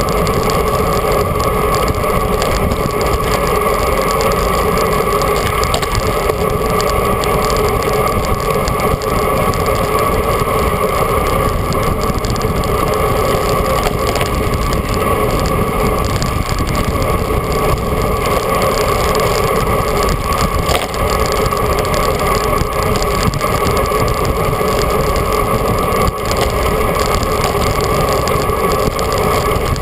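Steady rush of wind and road noise on an action camera's microphone while riding a bicycle, with a constant hum running through it.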